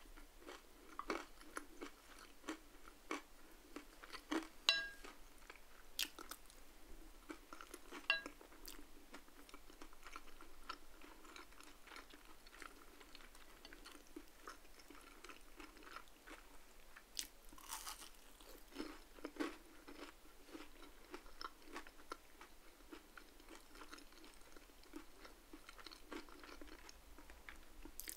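Close-up chewing and crunching of crispy food: fried salmon skin and crinkle-cut fries. Two sharp ringing clinks, about five and eight seconds in, fit cutlery striking the plate.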